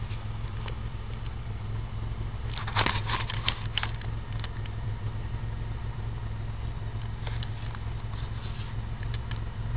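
Nissan VE30DE 3.0-litre DOHC V6 idling steadily. A short run of clicks and knocks comes about three seconds in.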